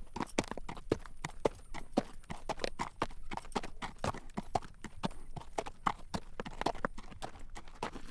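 A horse's hooves clip-clopping on a road at a walk, several clops a second, as it pulls a carriage.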